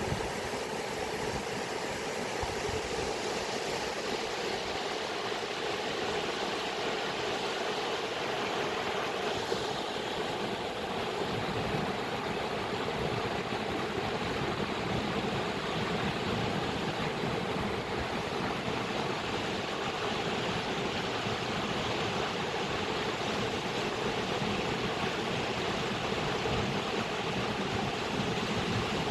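Flowing water: a steady, even rushing with no breaks or changes.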